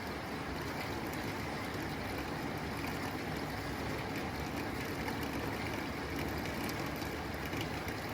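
Steady rain falling on a tin roof, an even hiss of drops with fine pattering ticks on the metal.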